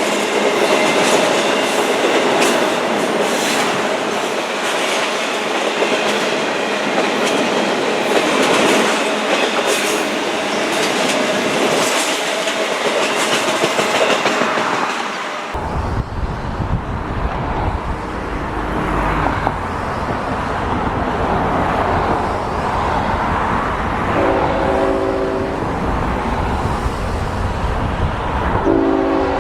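A train passing at close range, its wheels clicking rhythmically over rail joints with a steady rolling rush. About halfway through, the sound changes abruptly to a lower rumble. Near the end, a multi-tone locomotive horn sounds twice, the second blast starting just before the end.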